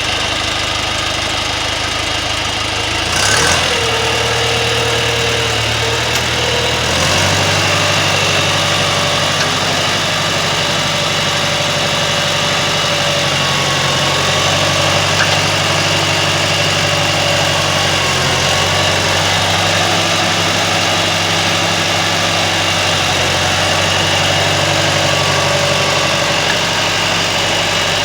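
Tractor engine running steadily. Its note changes a few seconds in and again about seven seconds in.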